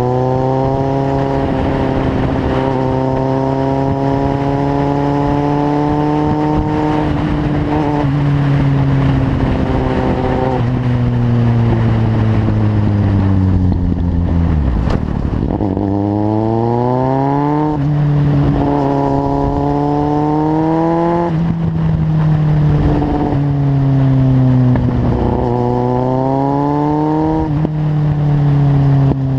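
Kawasaki Z750's inline-four engine through a carbon LeoVince aftermarket exhaust, ridden on the road. The engine note holds fairly steady, falls away about halfway through as the bike slows, then climbs in pitch several times, dropping suddenly at each upshift.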